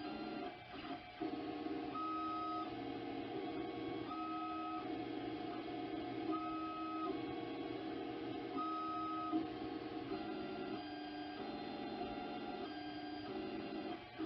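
Ender 3 Pro 3D printer's stepper motors whining in steady tones that jump from pitch to pitch as the print head changes moves, with a short higher tone recurring about every two seconds.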